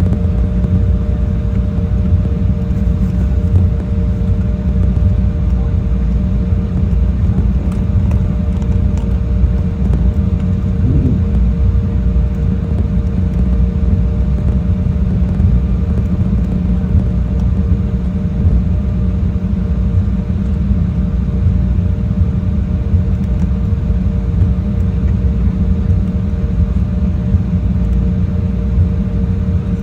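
Steady low rumble of a jet airliner heard from inside the cabin, with the engines running at constant power, plus a steady hum of two tones.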